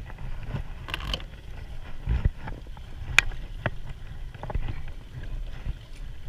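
Scattered knocks and clicks of gear being handled in a kayak, over a low rumble, with one sharp click about three seconds in.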